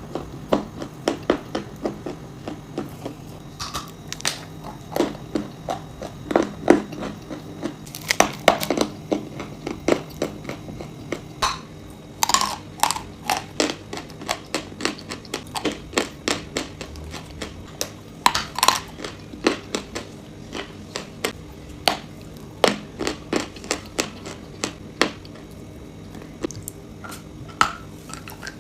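Close-miked crunching as hard, brittle pieces are bitten and chewed: a dense, irregular run of sharp crunches, with a few louder bites about 8, 12 and 18 seconds in.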